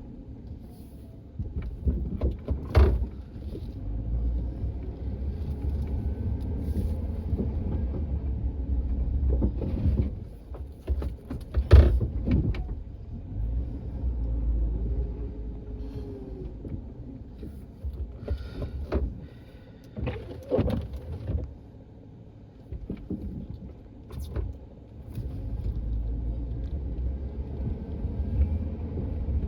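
Engine of a snow-clearing vehicle running under load, its revs rising and falling, with several sharp metallic clanks, the loudest about twelve seconds in.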